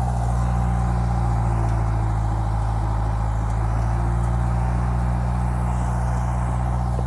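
Bulldozer's diesel engine running steadily at a constant speed.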